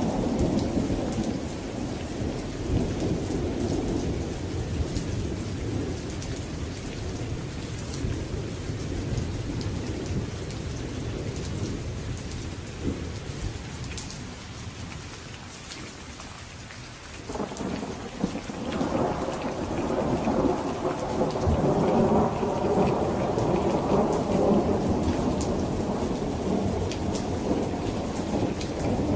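Thunderstorm: steady rain pattering throughout, with rolling thunder. One long rumble fades away over the first half, and after a short lull a second, louder rumble builds in and rolls on.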